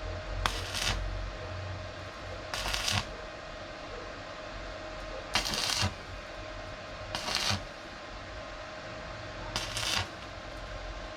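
Five short scraping or rasping strokes, each about half a second long and a couple of seconds apart, over a steady faint hum.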